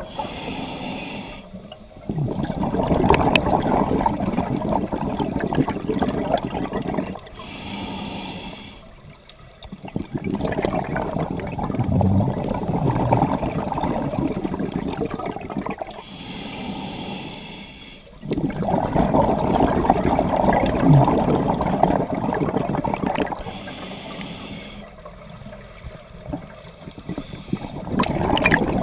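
Scuba diver breathing through a regulator underwater, about four breaths. Each has a short hiss as the diver inhales, followed by a long rush of exhaled bubbles.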